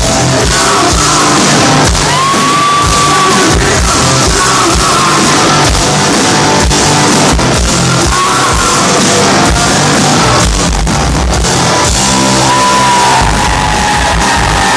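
Live rock band playing loudly in a large hall, with sung and shouted vocals over drums and guitars.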